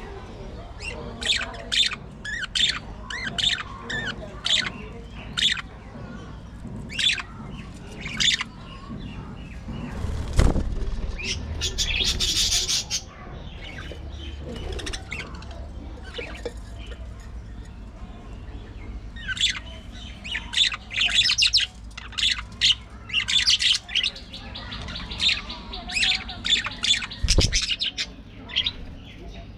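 Pet budgies chirping and chattering in quick clusters of short, high calls, with a harsher, denser squawking burst about twelve seconds in. Two dull thumps come partway through and near the end.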